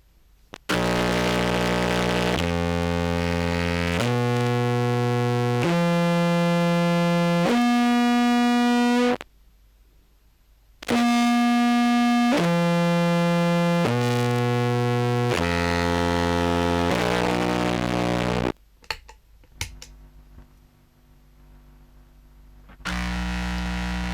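A recorded contrabass clarinet sample played through a fuzz pedal with the float off, so it comes out as heavily distorted, buzzy notes. It plays five held notes stepping up the scale, pauses briefly, then five stepping back down. Scattered crackles and hiss follow, then another note starts near the end.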